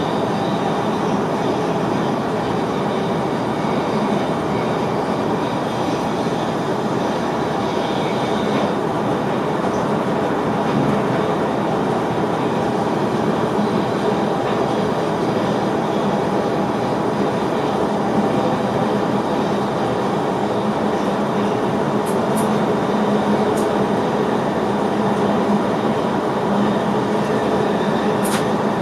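Running noise heard inside the driver's cab of an NS VIRM double-deck electric train: a steady rumble of wheels on rail with a low, even hum. A few short ticks come near the end.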